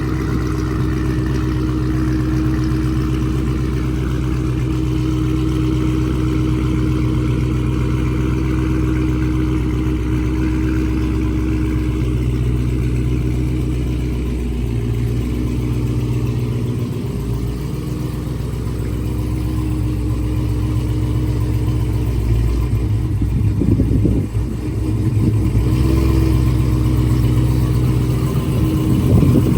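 Chrysler 300 SRT8's cammed 6.1 Hemi V8 running at idle after a cold start, getting a little louder in the last few seconds.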